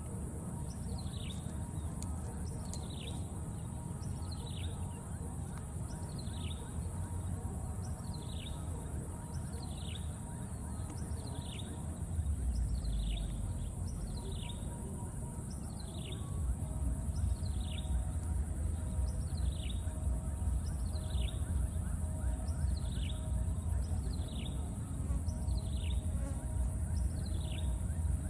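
A bird repeating a short, falling call about once a second, over a steady high-pitched drone of insects. A low rumble of wind on the microphone swells about halfway through.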